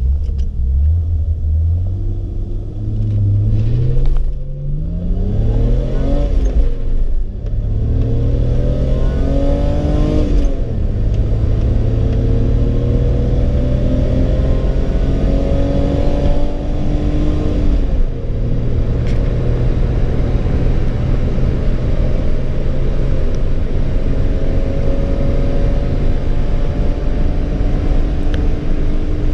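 BMW E30 320i's straight-six engine, with a short 4.27 final drive, accelerating hard through the gears. The engine note rises and drops sharply at each change, about 4, 7, 10 and 18 seconds in, then climbs slowly and steadily.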